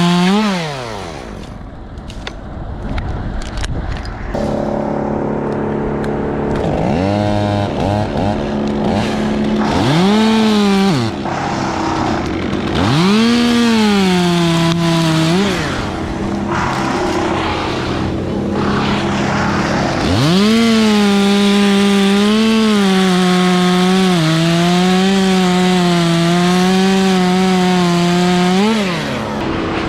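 Two-stroke chainsaw revving, with the throttle squeezed and released several times so the pitch swoops up and falls back. In the last third it holds at high revs for a long stretch, wavering as it works through a cut, then drops back near the end.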